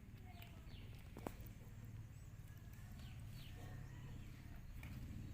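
Outdoor ambience: birds giving repeated short, falling chirps over a low, steady rumble, with one sharp click a little over a second in.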